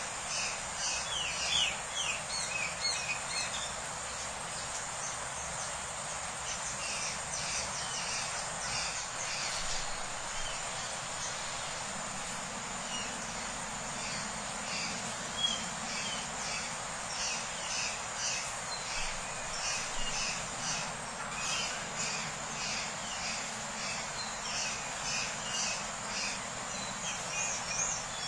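Small birds chirping in repeated quick bursts of short high notes, over a steady high buzz of insects.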